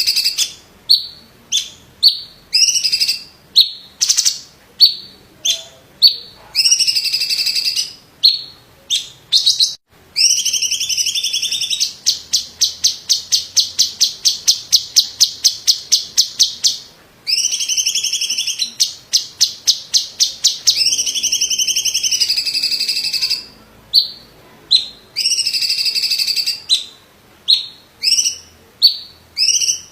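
Green leafbird (cucak ijo) singing loudly: short sharp calls repeated about once a second, broken by longer phrases and by a fast run of repeated notes at about four to five a second near the middle.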